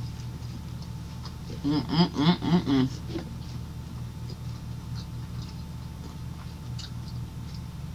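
Closed-mouth chewing of a sub sandwich with faint mouth clicks over a steady low hum. About two seconds in, a brief run of about five short pitched, voice-like sounds.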